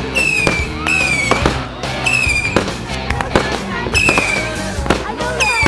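Fireworks going off: sharp bangs and crackles mixed with several short, high whistles that each fall slightly in pitch.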